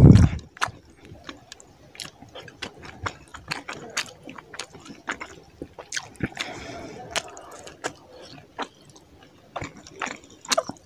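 Close-miked, wet mouth sounds of eating rice and fish curry: chewing and lip smacking with many sharp clicks, and a loud low thump right at the start. A soft squishing runs for a moment past the middle as fingers mix curry-soaked rice on the plate.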